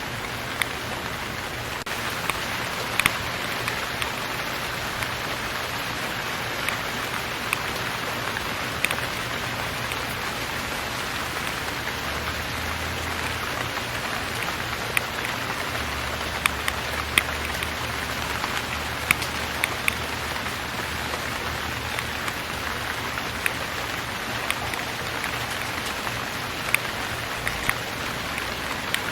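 Steady rain falling, an even hiss with scattered sharper drops ticking close by.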